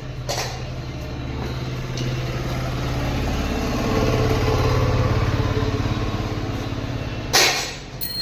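A motor or engine running steadily with a low hum. It grows louder through the middle, and there is a short sharp noise burst about seven seconds in.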